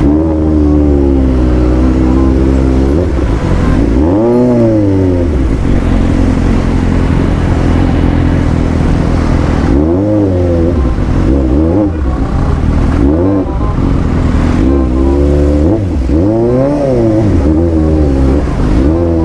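Suzuki GSR750 inline-four engine running, with about six quick throttle blips that each rise and fall sharply in pitch, separated by stretches of steady running.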